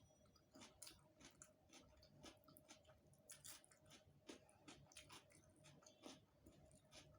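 Faint, close-miked chewing of a rice and curry meal: soft, wet mouth clicks and smacks, a few a second, irregular, over a faint steady hum.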